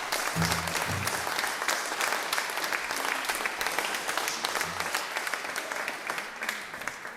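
Audience applauding, a dense patter of clapping that slowly fades near the end.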